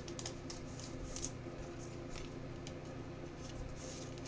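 Trading cards being handled: soft, scattered rustles and scrapes as cards slide against each other and their sleeves, over a steady low hum.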